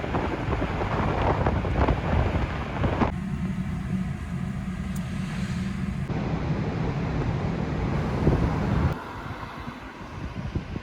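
Steady vehicle rumble with wind noise on the microphone, changing abruptly about 3, 6 and 9 seconds in.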